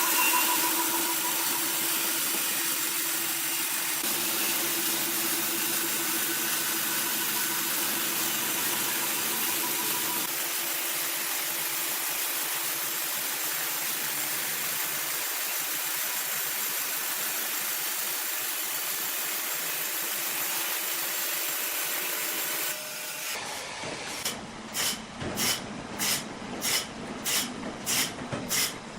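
Sawmill machinery running: a steady, loud noise with a faint steady whine. About 23 seconds in the sound changes abruptly to a rhythmic pulsing of roughly two beats a second.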